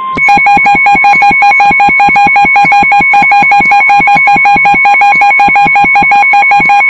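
Emergency alert signal: a steady single alarm tone of the weather-radio kind, with a fast rhythm of alternating high and low electronic beeps and clicks over it, about five a second, very loud.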